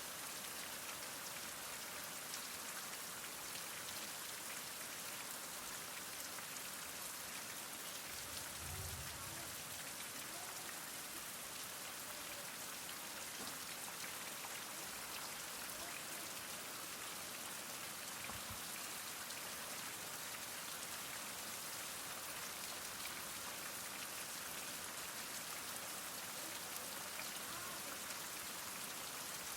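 Heavy rain falling steadily: an even hiss of many fine drops. About a third of the way in there is a brief low rumble under it.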